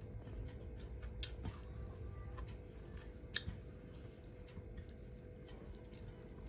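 A person chewing food close to the microphone, with soft wet mouth sounds and two sharp clicks, about a second in and about halfway through.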